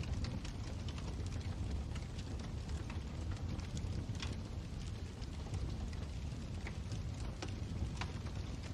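Wood fire burning in a fireplace: a steady low rumble of the flames with irregular crackles and sharp pops throughout.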